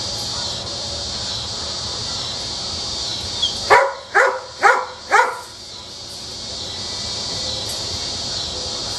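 A German shepherd puppy yipping four times in quick succession, about half a second apart, each yip sliding down in pitch, over a steady high hiss.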